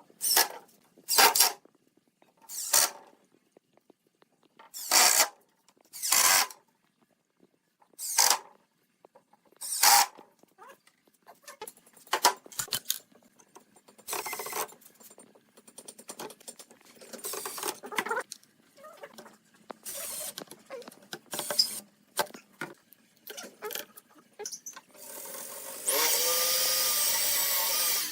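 Woodworking tool noise: a series of short, separate rasping strokes, then light knocking and handling clatter. Near the end a power tool runs steadily for about two seconds.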